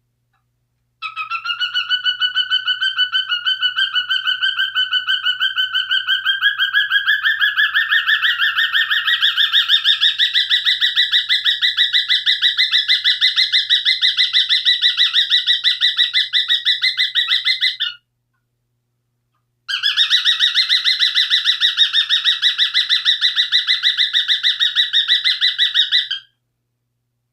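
Cockatiel calling loudly in a long, rapid run of repeated shrill notes, several a second at a steady pitch that rises slightly partway through; it stops for about two seconds, then starts again.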